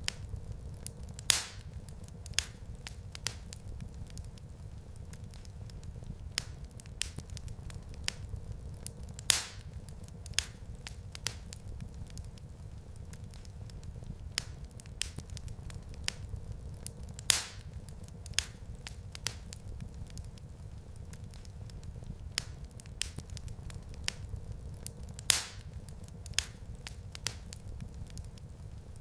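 Wood fire crackling in a fireplace: a steady low rumble of flames under many small crackles, with a sharper, louder pop about every eight seconds.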